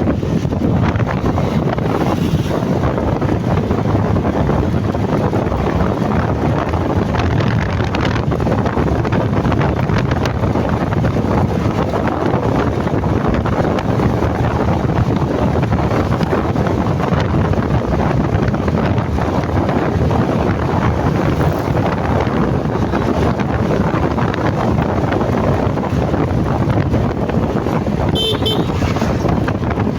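Steady wind buffeting on the microphone of a moving motorcycle, over engine and road noise. A short, high beep sounds near the end.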